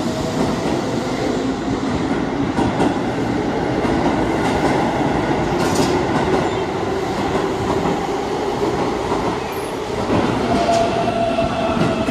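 Keihan 8000 series train running along an underground platform: a steady rumble of wheels on rail with a faint whining tone and some wheel squeal. A higher tone comes in about ten seconds in.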